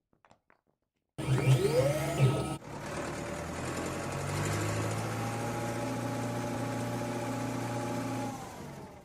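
Animated sound effect: a short passage of gliding tones about a second in, then a steady engine-like hum that fades out near the end.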